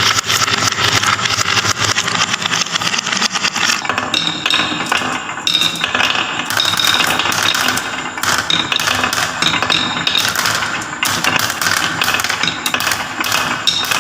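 Many marbles rolling and clattering down a wooden marble run track, a dense, continuous rattle of clicks with occasional short ringing pings.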